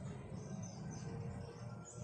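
Faint, soft bird chirps over a low steady hum, in a lull between loud song phrases.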